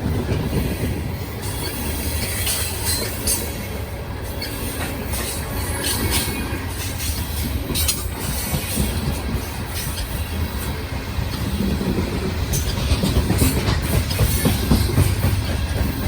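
CSX coal train of loaded hopper cars rolling past, a steady low rolling noise of steel wheels on rail with frequent sharp clicks and squeals from the wheels.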